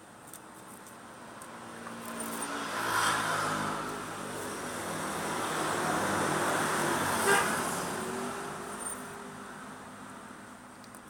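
A road vehicle passing by: its noise swells up, stays loud through the middle and fades away near the end.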